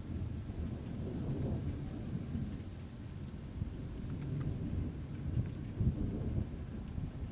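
Steady rain falling harder, with scattered drop ticks over a constant low rumble and a few louder low thumps in the second half.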